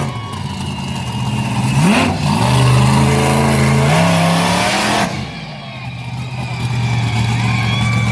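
Monster truck's supercharged V8 revving hard: its pitch climbs sharply about two seconds in and is held high. About five seconds in it drops back to a lower, steady run.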